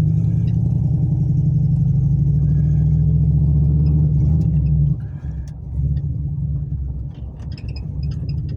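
A cammed, turbocharged 5.3 L V8, still cold, running loud and steady for about five seconds. It then drops abruptly to a quieter, uneven running level.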